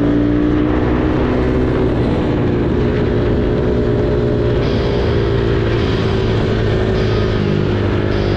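Ohvale minibike's small single-cylinder four-stroke engine running steadily at speed, heard from on board, its pitch wavering slightly as the throttle changes.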